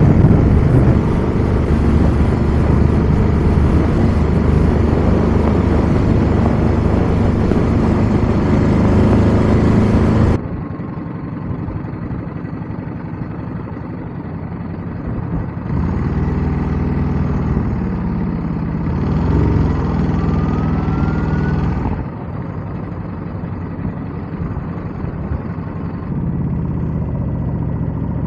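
Ducati Scrambler 1100's air-cooled L-twin engine running under loud wind noise on the microphone from strong gusts. About ten seconds in, the sound cuts abruptly to a quieter, duller engine note with much less wind, and the engine swells briefly a little later.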